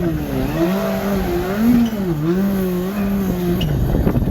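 Rally car engine at high revs, its note rising and falling several times as the driver works the throttle and gears. Near the end the note drops away into a short rush of noise.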